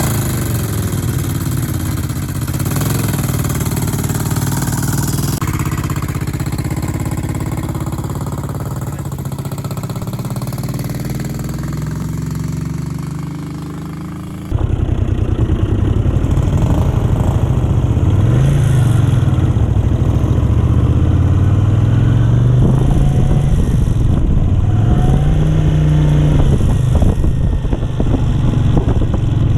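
A 1970s Honda 350 motorcycle engine running steadily. About halfway through it gets suddenly louder, and later the throttle is blipped twice, the pitch rising and falling each time.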